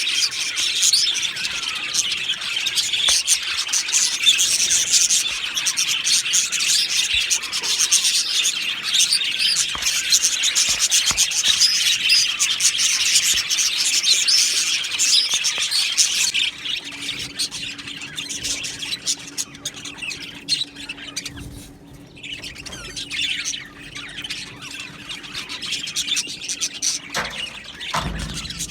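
A flock of budgerigars chattering and chirping, a dense continuous warble for the first half that thins to scattered calls after about sixteen seconds. A faint steady low hum runs through most of the second half, and a short low thump comes near the end.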